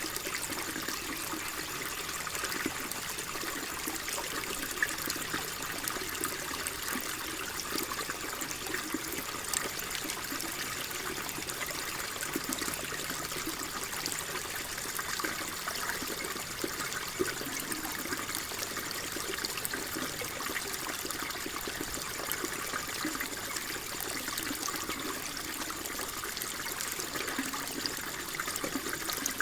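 Water flowing and trickling steadily, a continuous splashing babble without pauses.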